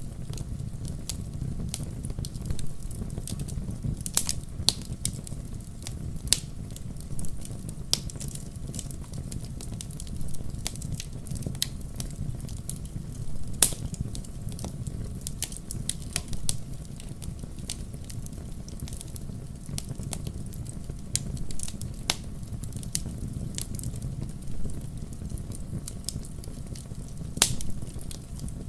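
Wood campfire burning with irregular sharp crackles and pops over a steady low rumble of the flames, with a few louder pops, one about halfway through and one near the end.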